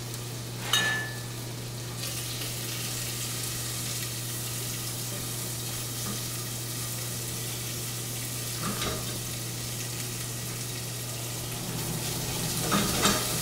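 Food sizzling as it browns in a saucepan on a gas burner, stirred with a spoon that clinks against the pot about a second in, again near the middle, and a few times near the end.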